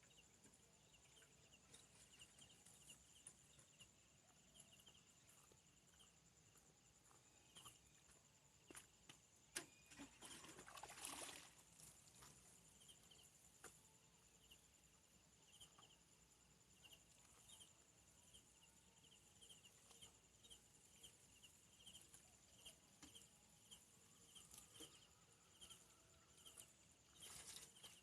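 Faint outdoor ambience of insects: a steady run of short high chirps over a constant high whine, with a brief rustle about eleven seconds in.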